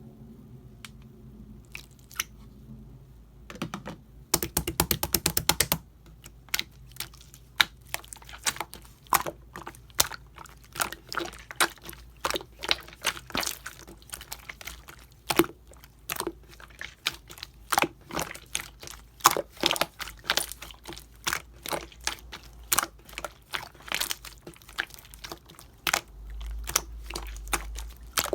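Yellow marbled slime being squeezed and pressed by hand, giving many small clicking pops of trapped air, with a fast run of clicks about four seconds in and then irregular pops a few times a second.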